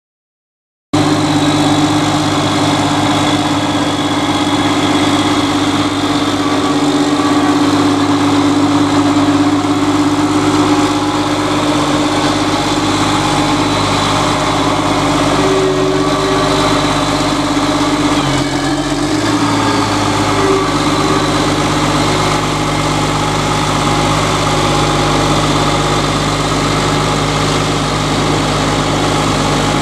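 Caterpillar trail groomer's diesel engine running steadily, coming in abruptly about a second in, with a brief change in its low note about two-thirds of the way through.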